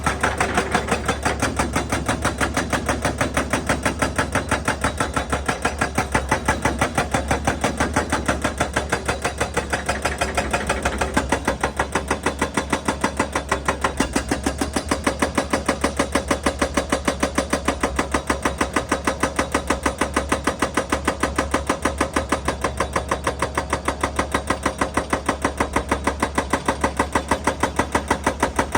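Excavator-mounted hydraulic breaker hammering rock in rapid, even blows, several a second, over the steady running of the machine's engine.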